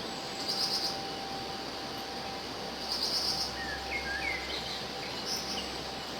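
Woodland ambience with a steady hiss. A short, high, buzzy trill sounds near the start, again about three seconds in and faintly near the end, and a few short bird chirps come in the middle.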